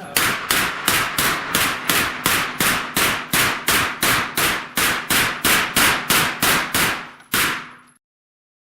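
A rapid, evenly paced string of gunshots, about four a second, fired at steel plates, with one last shot after a brief pause. The sound cuts off abruptly near the end.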